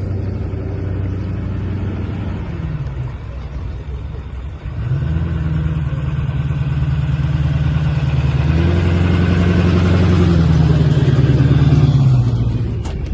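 Car engine running close by at steady speeds: its pitch falls away about two and a half seconds in, comes back louder about five seconds in, steps up about eight and a half seconds in and drops again near the end.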